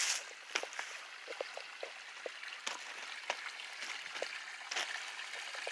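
Shallow runoff water trickling and gurgling through a dug channel, a steady wash of water with small drips and plinks scattered through it.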